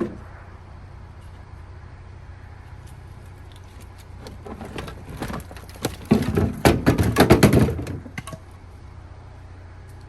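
Clattering and knocking of camp gear being handled, loudest from about six to eight seconds in, over a steady low hum.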